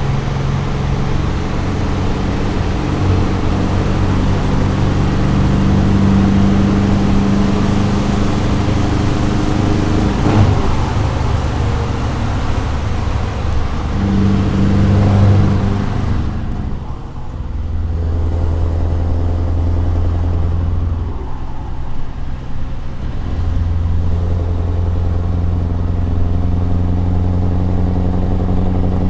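Scania 164 480's V8 diesel engine running, with its pitch shifting in steps during the first half. About halfway through the sound turns duller and settles into a steady low note.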